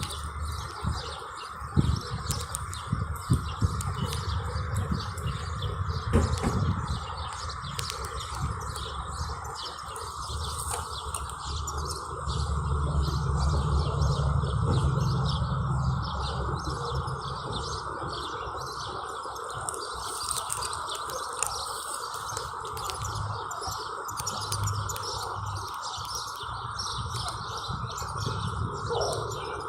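Birds chirping, over a steady background hum and a low rumble that swells for a few seconds midway.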